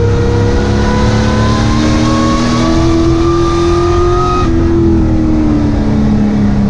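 Sport truck's race engine heard from inside the truck, pulling with pitch rising steadily, then the throttle comes off about four and a half seconds in and the engine note falls away as the truck slows, over a constant low rumble.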